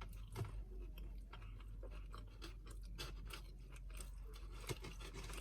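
Close-mic chewing of a mouthful of burger and fries: faint, irregular crunches and mouth clicks.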